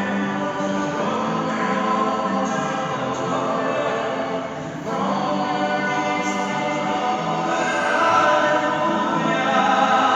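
Choir singing with long held notes in harmony, briefly dipping about halfway through and swelling a little louder near the end.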